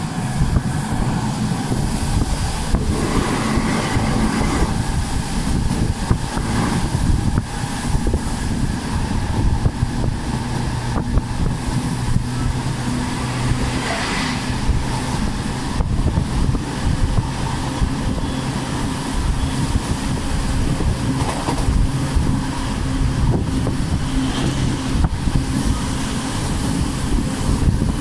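Electric commuter train running at speed, heard at a slightly open window: a steady rumble of the wheels on the rails with wind rushing past the gap.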